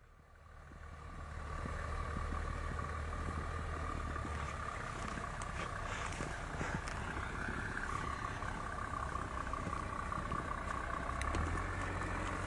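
Mercedes G-Class off-roader's engine running steadily as the vehicle drives up close and past, growing louder over the first two seconds. A steady whine sits above the engine note throughout.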